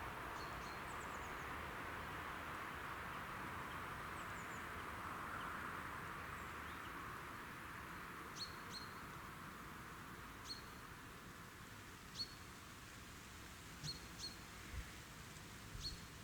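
Faint outdoor ambience: a soft hiss that slowly fades, with short high bird chirps every second or two from about halfway through.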